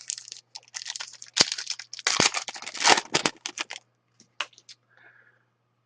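A trading card pack's wrapper crinkling and tearing as it is opened, with cards being handled: a dense run of crackles that stops about four seconds in, followed by a few faint ticks.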